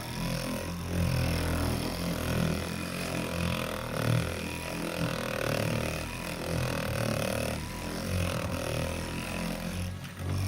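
Electric buffer running steadily with its pad working polishing glaze over car paint at light pressure, a continuous motor hum with the pad rubbing on the panel. The sound dips briefly about ten seconds in.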